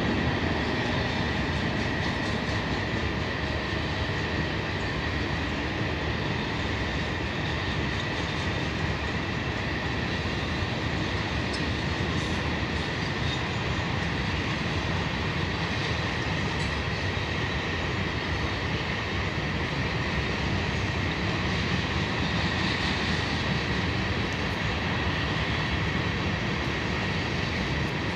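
Train rolling past on the track, railcars making a steady rumble that holds level the whole time, with a thin steady high-pitched whine from the wheels over it.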